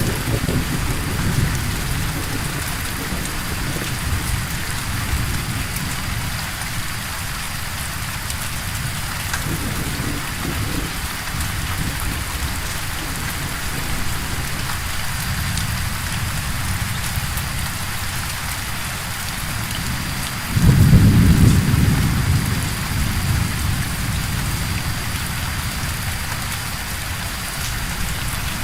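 Steady rain with low rolling thunder in the background. About two-thirds of the way through, a louder thunder rumble breaks in suddenly and then rolls away.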